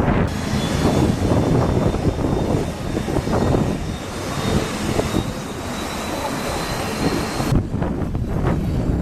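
Twin turbofan engines of a BeechJet 400A business jet running at high power: a loud, rough rumble with a faint high whine that rises slowly. The whine and the upper hiss cut off suddenly about seven and a half seconds in.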